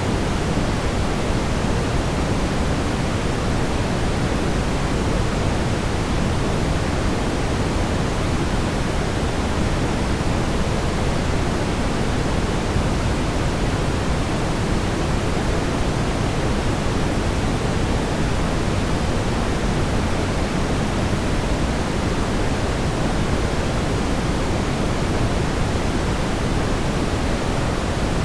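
Steady brown noise: a continuous, even, low-weighted rushing hiss with no changes or events.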